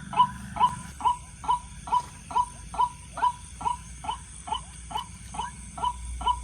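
White-breasted waterhen (ruak-ruak) call: a short, pitched note repeated evenly, about twice a second, without a break.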